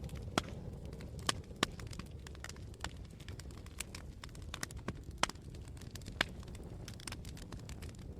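Wood campfire burning, with a steady low rumble of flame and irregular sharp crackles and pops from the wood. The crackles come several times a second, a few louder snaps standing out.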